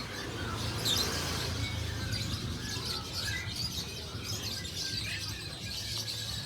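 Birds chirping over and over, many short high calls overlapping, above a steady low background hum.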